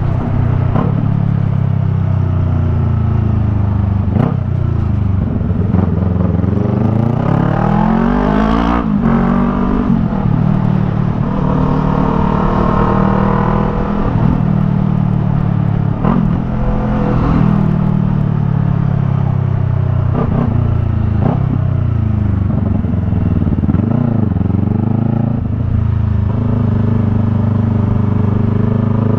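Yamaha MT-03's parallel-twin engine through a Jeskap R3 Cup aftermarket exhaust, ridden with the revs climbing and dropping repeatedly as it pulls through the gears. Several sharp breaks in the engine note mark gear changes or throttle shut-offs.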